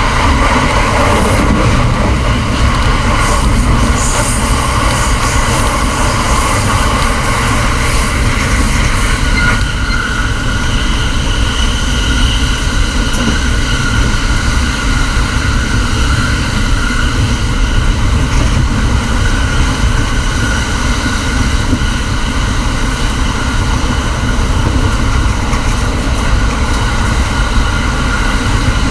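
Electric commuter train running at speed on the Takasaki Line, heard inside a KuHa driving trailer car: a steady rumble of wheels on rail with a faint high whine. The first third has extra rattling and crackle.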